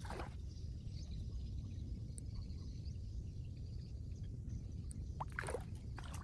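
Floodwater sloshing and splashing over a steady low rumble, with one splash at the start and another about five seconds in.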